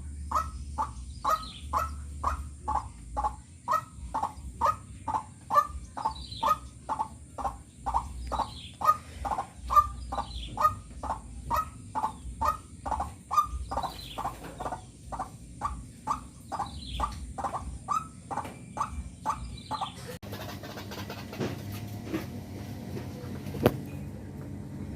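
Caged birds calling: one bird repeats a short note about twice a second, with faint high chirps from smaller birds over it. The calls stop abruptly about twenty seconds in, leaving a faint background and a single click near the end.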